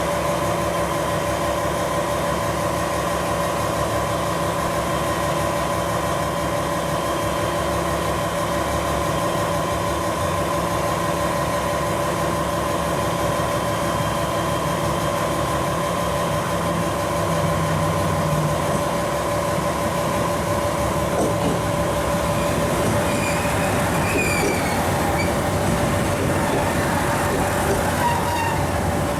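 Diesel trains at a station: a steady engine hum with a constant tone, then a second train drawing in just past halfway, growing louder, with a few short wheel squeals about two-thirds of the way through.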